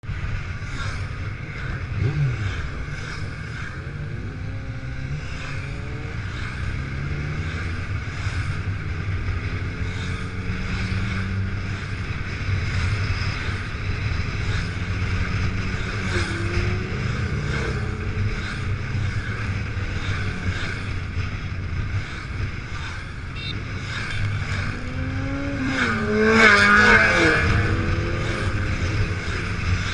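Motorcycle engine running while ridden, its pitch rising and falling again and again with the throttle. It gets louder with a rising pitch near the end.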